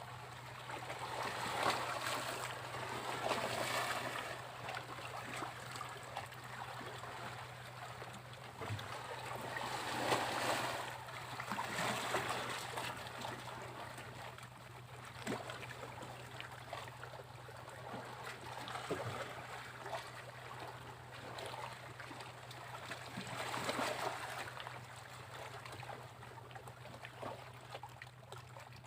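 Sea waves breaking and washing up on a beach, the surf swelling and fading in three larger surges, over a faint steady low hum.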